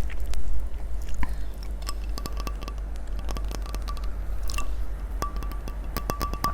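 Close-miked wet mouth and eating sounds: many small clicks and squishes over a steady low background hum.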